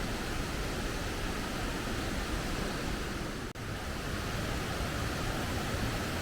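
Steady rushing of fast-flowing stream water, swollen by typhoon rain, heard as an even roar with a brief dropout about three and a half seconds in.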